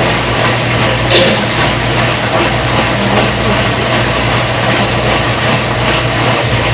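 Front-load washing machine running: a steady motor hum under an even rushing noise, with a brief click about a second in.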